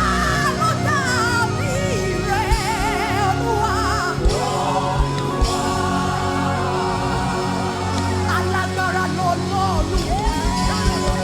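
Live gospel worship music: a singer's wavering, ornamented vocal runs over sustained chords, with drum beats coming in near the end.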